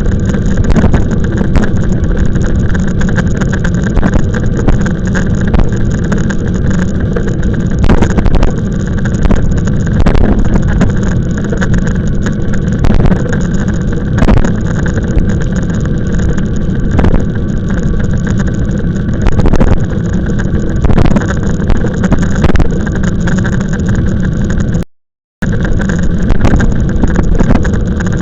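Steady rumble and wind noise on the microphone of a camera riding along on an e-bike, with scattered knocks. The sound drops out completely for about half a second near the end.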